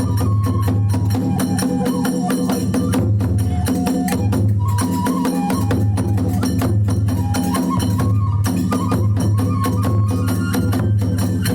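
Kagura hayashi accompaniment: a taiko drum beaten in a fast, continuous roll under rapid clashing of small hand cymbals (tebyoshi), with a bamboo flute (fue) playing a stepping melody over them.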